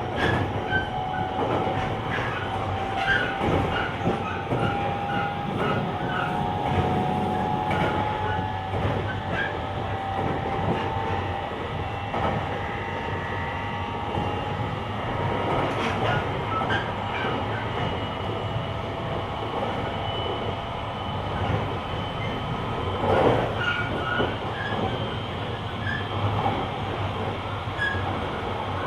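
An 885-series electric train in motion, heard from the vestibule deck: the whine of its Hitachi inverter and traction motors slowly rises in pitch as the train accelerates, over steady wheel-on-rail running noise with scattered rail-joint clicks. A louder knock comes about two-thirds of the way through.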